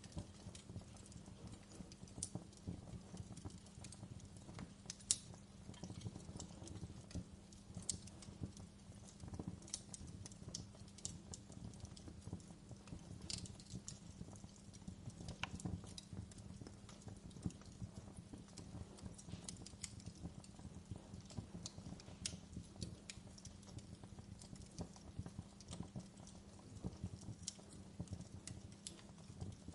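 Wood fire burning in a fireplace, crackling with irregular sharp pops and snaps over a low steady rumble of the flames; one louder pop about five seconds in.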